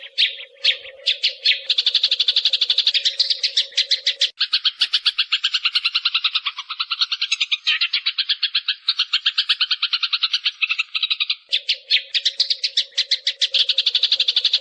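Sparrow decoy call recording: a fast, unbroken chatter of short chirps, about ten a second, used to lure sparrows into traps. A steady low hum runs under it for the first four seconds and comes back near the end.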